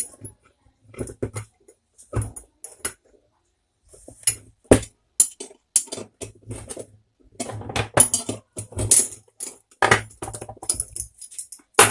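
Irregular sharp metallic clicks and knocks of tools working a worn 6202 ball bearing off a stand fan motor's shaft.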